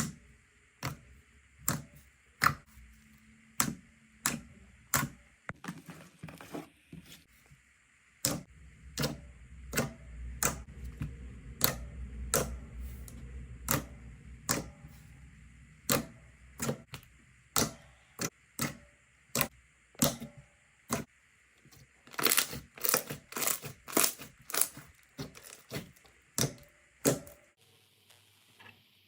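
Slime being pressed and poked by hand, giving sharp clicking pops about one to two a second, coming faster in a quick run near the end.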